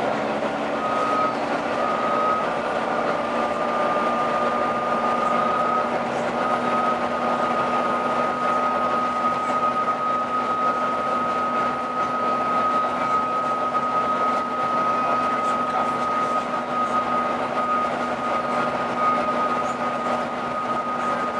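Volvo B9TL double-decker bus running with a strange howling noise: a steady high-pitched howl that holds one pitch, starting about a second in and breaking off briefly a few times, over the bus's engine and road noise.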